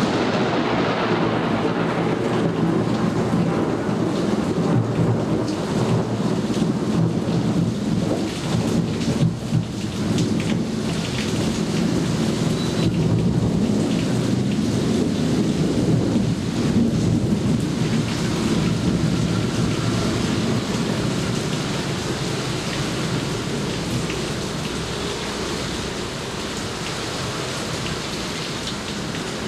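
Heavy rain falling with a long, low rolling rumble of thunder that eases off slightly toward the end.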